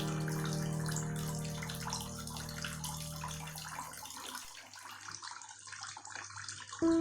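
Water splashing and trickling steadily down a mini styrofoam tabletop waterfall. A held music chord fades out over the first few seconds.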